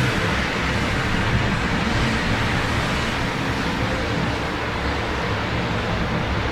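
Steady rain mixed with the constant hum of road traffic across a city.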